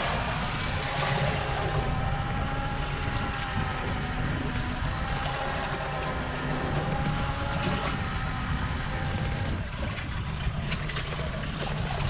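Electric fishing reel's motor whining steadily as it winds the line in, stopping about two-thirds of the way through, over a constant rumble of wind and water on the boat.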